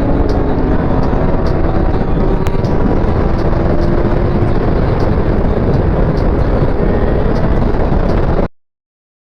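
Riding sport motorcycle at speed: heavy wind noise on the microphone over a steady engine note whose pitch climbs a little around the middle. The sound cuts off abruptly near the end.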